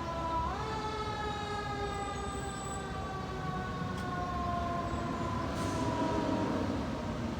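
Fire truck siren sounding, its pitch stepping up briefly about half a second in and then sliding slowly and steadily down, over a low rumble of traffic.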